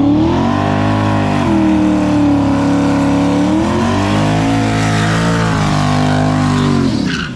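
A full-size pickup truck engine revving hard, its pitch rising, holding high with a couple of changes in pitch, then dropping away about seven seconds in.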